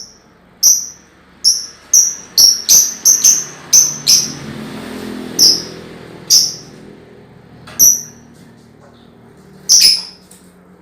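Young lovebird giving short, shrill single chirps, about fourteen of them spaced irregularly, with a quick run between about two and four seconds in. They are the separate calls of a juvenile still learning to chatter, not yet a sustained ngekek trill.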